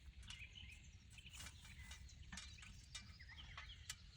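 Faint birdsong: small birds chirping in short calls, with a couple of light clicks or taps.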